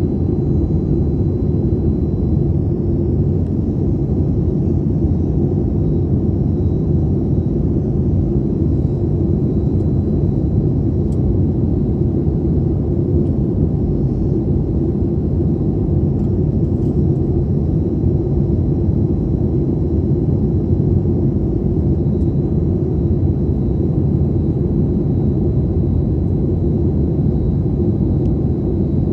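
Steady low rumble of a Boeing 737's cabin in flight, engine and airflow noise heard from inside, with a faint steady high whine on top.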